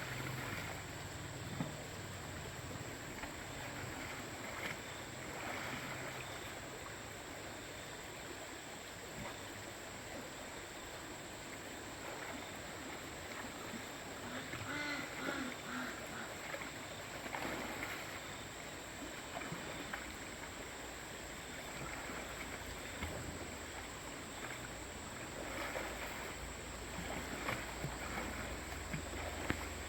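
Two-wheel tractor engine running steadily under a rushing background noise.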